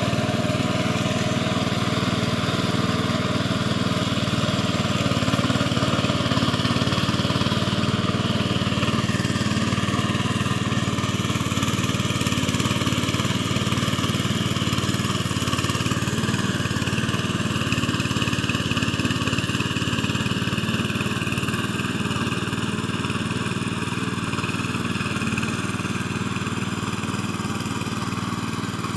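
Mini tractor's engine running steadily as it ploughs a field.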